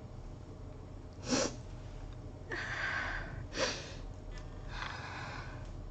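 A woman sniffing and breathing audibly through her nose: four short, noisy breaths over a few seconds.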